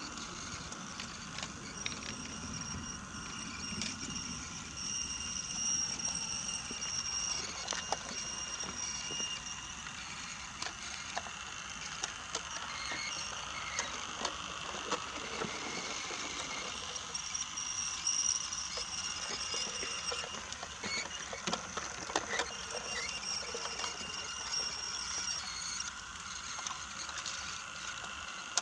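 Brio toy train running along wooden tracks: a thin high motor whine that comes and goes, with scattered clicks and clacks of the wheels and cars over the track joints.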